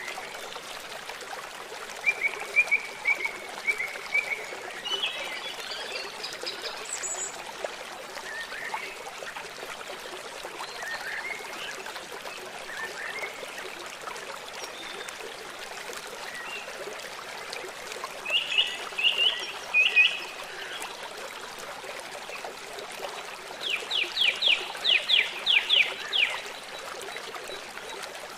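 River water flowing and trickling steadily, with birds calling over it now and then. About three-quarters of the way through, one bird gives a quick run of about eight sharp downward-sweeping notes, the loudest sound here.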